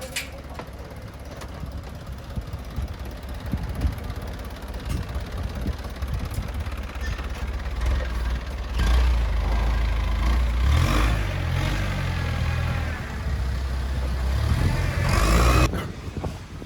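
Livestock truck's engine running at idle, a low rumble that gets louder partway through and cuts off suddenly near the end.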